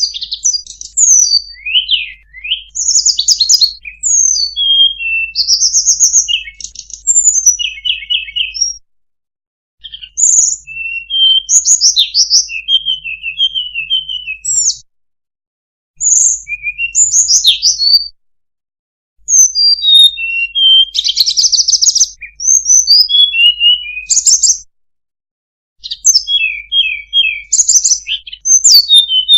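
Recorded birdsong used as a lure call for sulingan (tledekan) flycatchers: a fast, varied string of high whistled notes, chirps and short trills. It comes in runs of several seconds, broken by about four brief silences.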